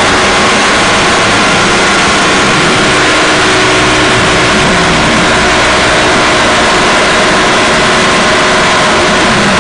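Harsh noise and drone music: a loud, unchanging wall of distorted noise with faint held tones running through it.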